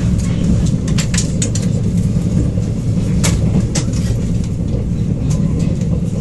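Steady low rumble inside a Mugunghwa-ho passenger train carriage running along the track, with a few sharp clicks about a second in and again a little past the middle.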